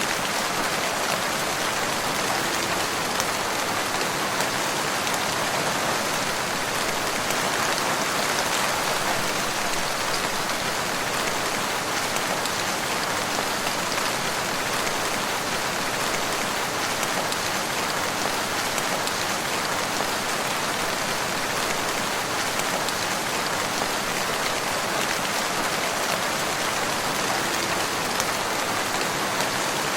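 Steady rain falling in a forest, an even hiss of drops on leaves and ground with faint scattered drop ticks.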